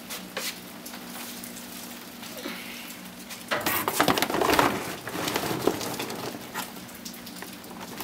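Bundles of number 1 insulated copper wire rustling and clattering as they are handled and dropped into a cardboard box, with scattered clicks and a dense burst of rattling about three and a half seconds in.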